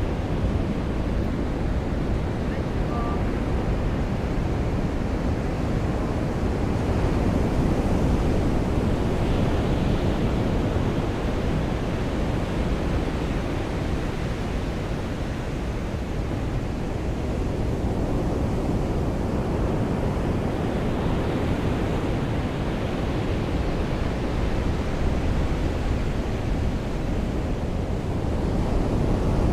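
Surf rolling onto a beach: a steady rushing that swells and eases every ten seconds or so as waves come in, with wind.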